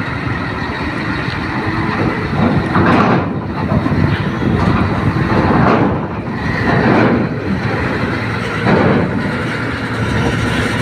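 Heavy vehicles' engines running loudly, with several swells of noise a few seconds apart as they work.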